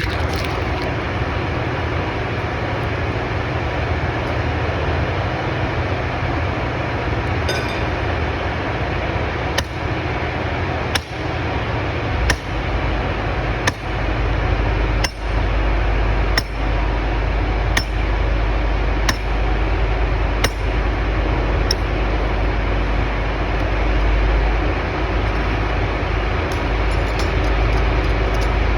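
A 12 lb sledgehammer driving steel form pins for a concrete slab: about ten sharp steel-on-steel blows at a steady pace, a little over a second apart, starting about ten seconds in. A steady loud background noise runs under them.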